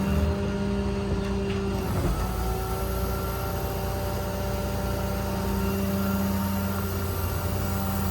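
The Ram 5500's 6.7 Cummins straight-six diesel running steadily. Its note steps up in pitch right at the start.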